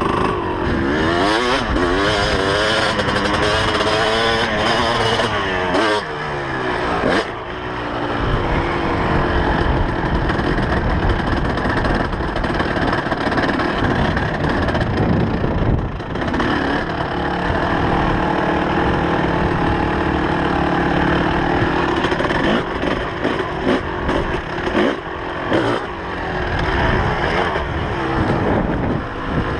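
2004 Kawasaki KX250's two-stroke single-cylinder engine under riding load, its pitch climbing and dropping again and again with throttle and gear changes, with sharp falls about six seconds in and again past the middle. Short knocks from the bike over bumps come through in the second half.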